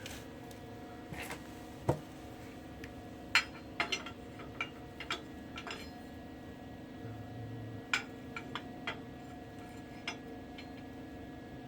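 Scattered metallic clinks and light knocks of steel parts and tools being handled, over a steady low hum.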